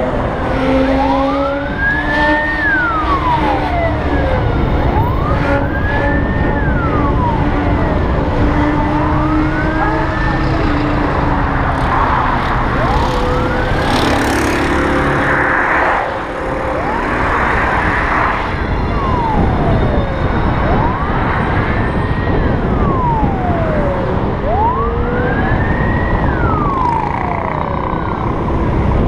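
Emergency vehicle siren wailing, its pitch rising and falling in slow sweeps about once every four seconds, over steady road and wind noise.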